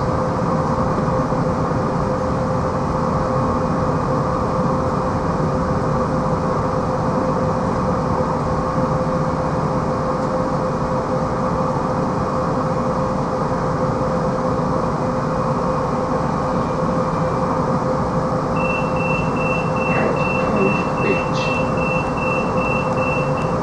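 Electric commuter train running, heard from inside the passenger carriage: a steady rumble of wheels on rail with a constant humming tone. In the last few seconds a higher steady tone joins in, along with a few light clicks.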